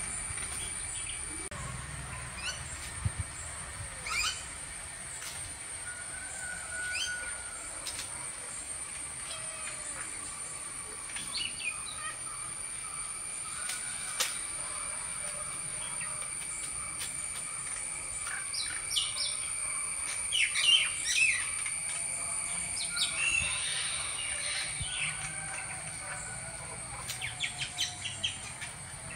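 Birds chirping and calling now and then, with clusters of quick chirps in the last third. Under them runs a steady high-pitched whine.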